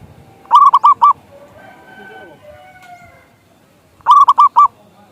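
Zebra dove (perkutut) calling: two loud phrases of four quick cooing notes each, about three and a half seconds apart.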